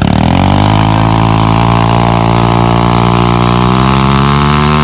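Pit bike engine running loud and close, its pitch climbing slowly and steadily as the bike pulls away and speeds up.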